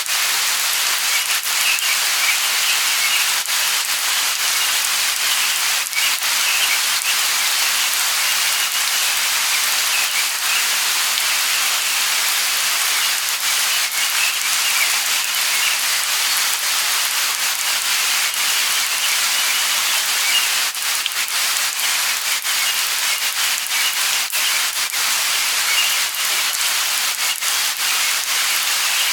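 Light rain falling steadily, a continuous hiss dotted with the ticks of individual drops landing close by.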